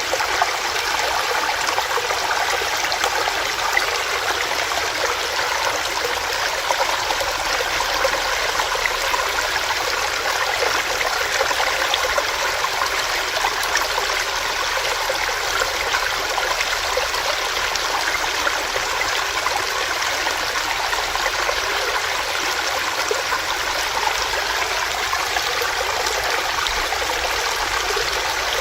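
Small stream running steadily over rocks, a continuous even rush of water with fine splashing and trickling.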